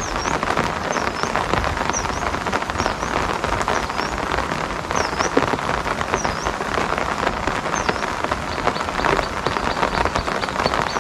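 Steady rain falling, a dense hiss of many individual drops. A short high chirp repeats about once a second over it, and about eight seconds in a faster run of high ticks joins in.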